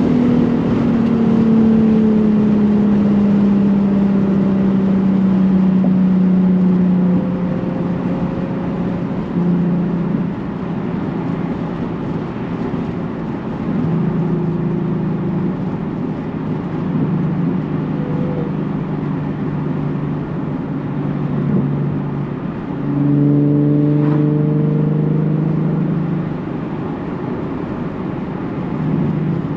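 Nissan 370Z's 3.7-litre V6 running through a Tomei titanium catback exhaust while driving. The engine note falls steadily over the first several seconds as the revs drop, then holds lower with small rises. About three-quarters of the way through it swells louder for a few seconds, then eases off.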